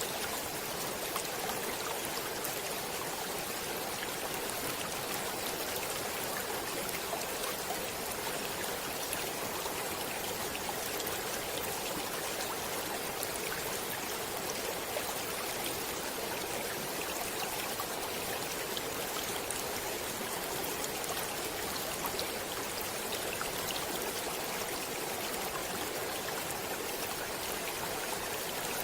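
Stream water flowing and splashing steadily, an even rushing hiss with tiny droplet clicks scattered through it.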